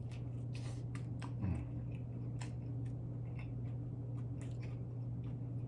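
Close-miked chewing: irregular wet mouth clicks and soft smacks, over a steady low hum, with one brief louder sound about one and a half seconds in.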